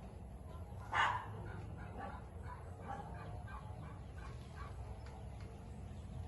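One short, loud animal call, like a single bark, about a second in, over faint, repeated short calls from farm birds.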